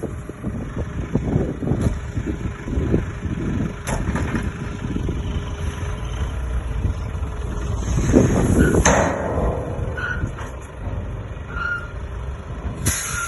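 ZIL-4585 dump truck's D-245 four-cylinder turbodiesel running with a steady low rumble, with a short hiss about eight seconds in.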